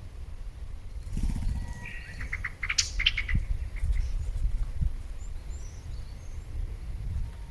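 A songbird sings a short phrase about two seconds in: a brief whistled note followed by a quick run of high, rapid notes. A few faint chirps follow, over a steady low rumble.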